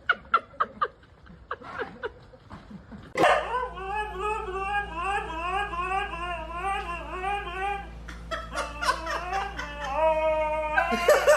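People laughing in short bursts, then a dog howling in one long wavering note for about four seconds, with more laughter near the end.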